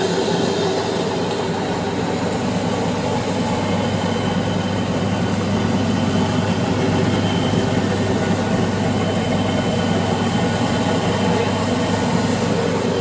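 Hemp seed grinder machine running steadily, its motor giving a constant hum under a continuous rough mechanical noise.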